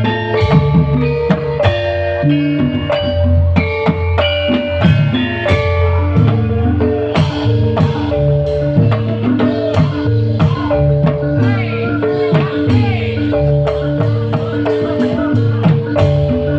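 Live band music: a steady bass line under quick, short struck melodic notes and regular drum hits.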